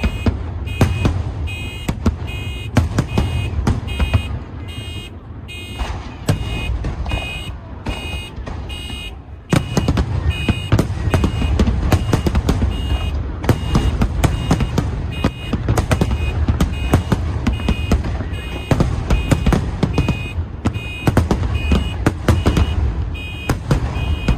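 Aerial fireworks going off in a dense barrage: many sharp bangs over a continuous low rumble, with a dip in intensity around ten seconds in before it picks up again. Through it an electronic alarm beeps with a two-tone pulse, evenly repeating a little under twice a second.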